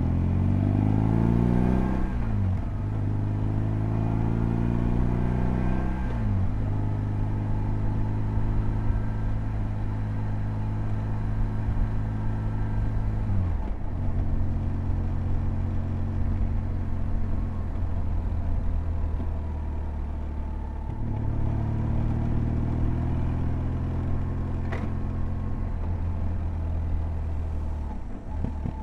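BMW R1200GS boxer twin engine pulling hard through the gears: its pitch climbs and drops sharply at each upshift, about four times, holding steady at cruise for several seconds in the middle.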